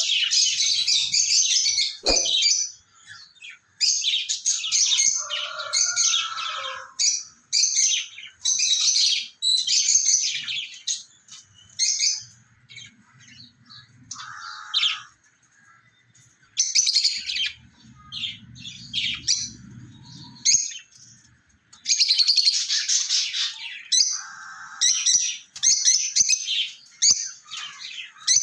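Lovebirds chirping and chattering in shrill bouts separated by short pauses. Two faint low rumbles come in around the middle.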